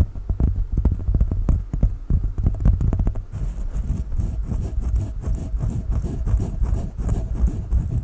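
Hollow knocking taps on a coconut shell, rapid and irregular. After about three seconds the taps turn into a denser, scratchy rubbing texture.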